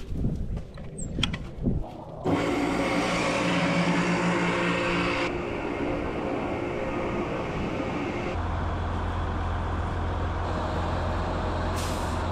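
A few scattered knocks and clicks, then a heavy vehicle engine running steadily from about two seconds in, its tone shifting abruptly twice.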